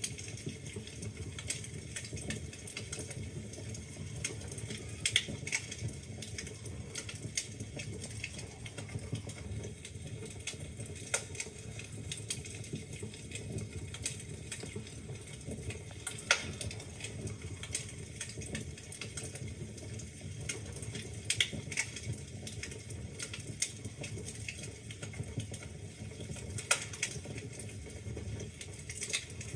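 Wood fire burning in a fireplace: steady low rumble of the flames with irregular crackles and snaps from the logs, a few louder pops scattered through.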